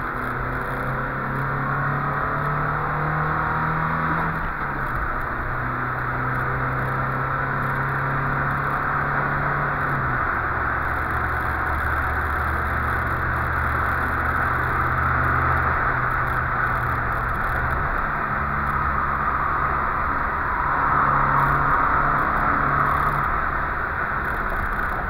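Volvo 144S four-cylinder engine running under load, heard from inside the cabin over steady road and wind noise; the engine note shifts to a new pitch a few times.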